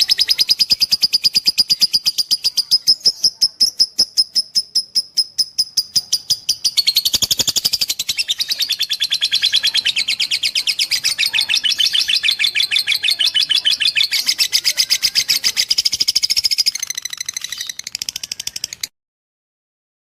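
Lovebird singing a long, rapid chattering song of about ten high chirps a second, the long-duration song prized in fighter lovebirds. The song grows fuller about seven seconds in and breaks off abruptly near the end.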